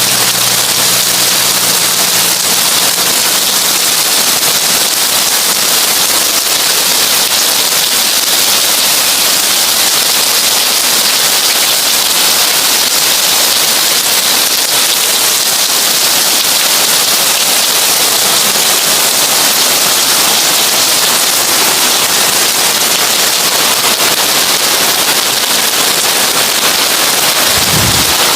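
Heavy rain drumming on a tin roof: a steady, dense, crackling patter with no let-up. A brief low thud comes near the end.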